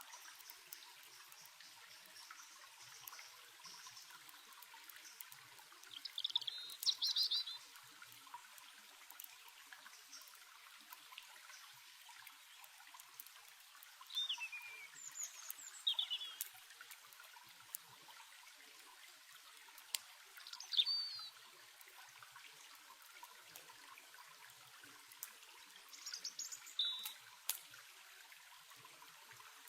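Steady soft trickle of a stream, with short bouts of falling bird chirps about every six seconds and a few faint crackles from a campfire.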